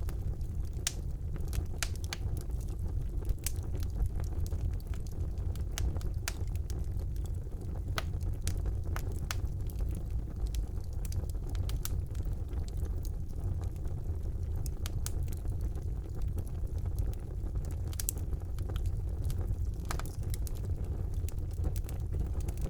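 Fire burning in a fireplace, crackling: irregular sharp pops and snaps scattered over a steady low rumble of the flames.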